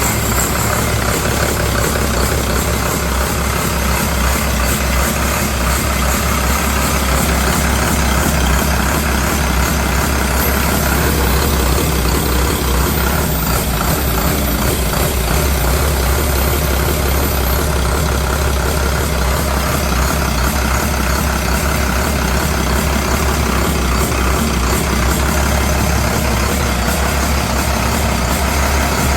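2007 International MaxxForce DT 7.6-litre six-cylinder turbo diesel idling steadily on a test run, with a constant low rumble.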